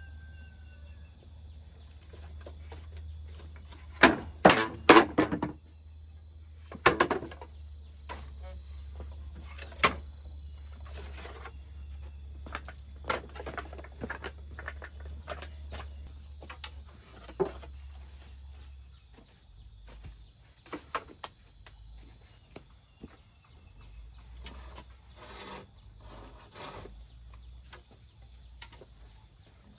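Insects chirring steadily at a high pitch. Over it come scattered knocks and clatter, loudest in a quick run of several strikes about four seconds in, then single knocks every few seconds.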